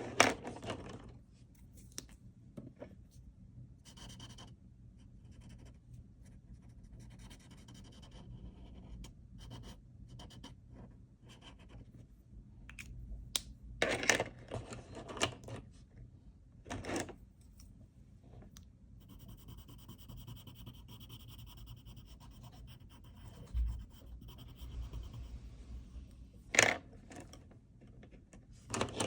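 A pen scratching on paper in drawing strokes: short intermittent strokes, a few louder ones in the middle and near the end, and a longer, steadier stretch of scratching in the second half.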